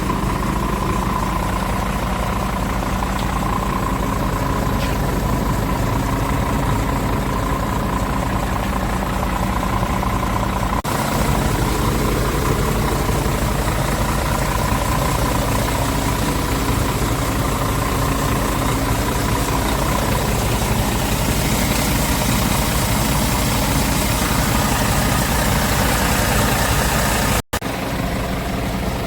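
Scania S410 truck's 13-litre inline-six diesel idling steadily. The sound changes abruptly about eleven seconds in and cuts out for an instant near the end.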